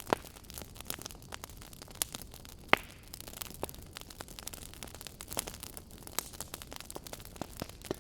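Wood fire burning in a fireplace: irregular crackles and pops over a soft steady hiss, with two louder snaps, one just after the start and one about two and three-quarter seconds in.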